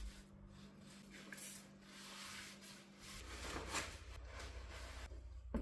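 Faint rubbing and wiping as a car's sunroof and its rubber seal are cleaned by hand, over a low steady hum.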